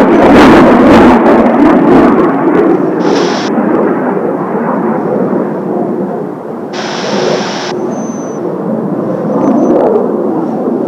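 Jet roar of Blue Impulse Kawasaki T-4 trainers passing over the base, loud at the start and fading as they draw away, with two short bursts of hiss about three and seven seconds in.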